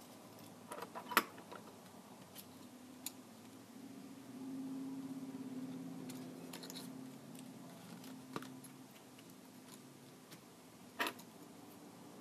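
Scattered small clicks and taps from a Kindle Fire tablet and repair tools being handled, loudest about a second in and again near the end, with a faint low hum for a few seconds midway.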